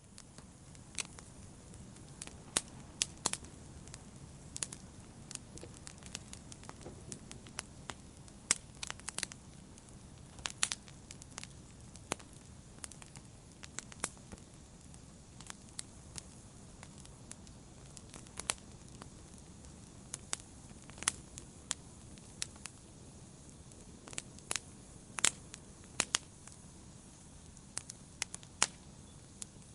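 Wood fire crackling: irregular sharp pops and snaps, some louder than others, over a soft steady noise of burning.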